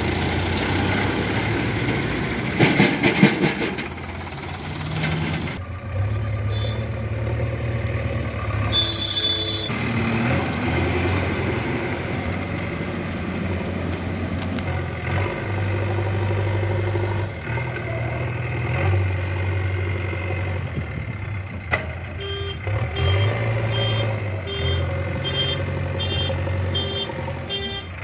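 Heavy vehicle engine running steadily, with a short clatter about three seconds in. Over the last several seconds a reversing alarm beeps, about two beeps a second.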